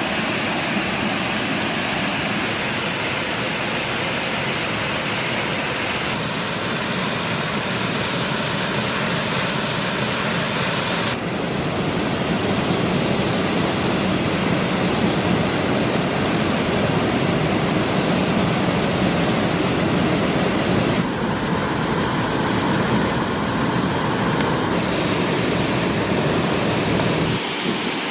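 Steady rushing noise with no distinct events, shifting abruptly in tone a few times.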